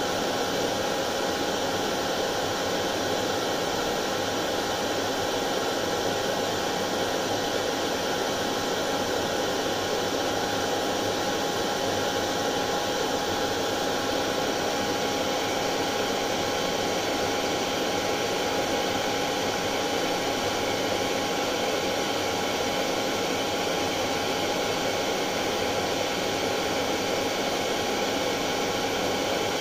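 Hair dryer running steadily: an even rush of blown air with a constant whine from its motor, used as white noise to soothe colicky babies.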